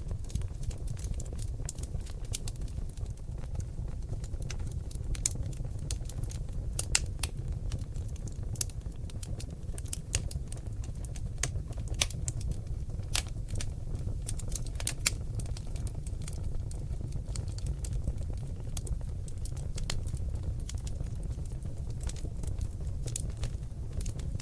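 Seasoned oak logs burning in a fireplace, crackling and popping irregularly over a low steady rumble.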